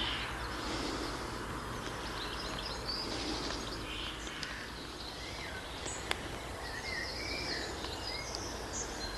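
Outdoor ambience: a steady background hiss with small birds chirping and singing intermittently, and a single sharp click about six seconds in.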